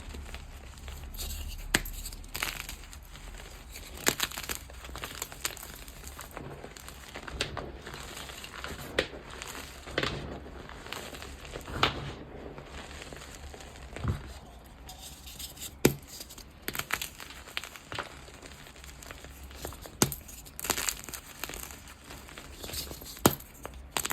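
Gym chalk being crushed and crumbled by hand: irregular crunches and sharp crackles with a soft powdery rustle between them.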